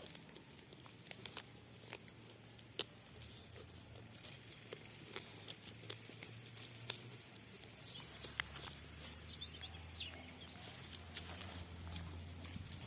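Livestock moving about, with scattered light clicks and taps. A low steady hum runs underneath and grows louder about two-thirds of the way in.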